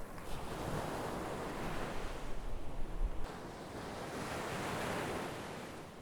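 Sea waves breaking and washing up the shore in two surges, the second fading away near the end. Wind rumbles on the microphone during the first surge.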